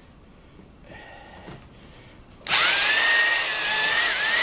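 Old corded Black & Decker electric drill starting about halfway through, its whine rising quickly and then holding steady as it drills a hole through plywood. Before it, only faint handling noise.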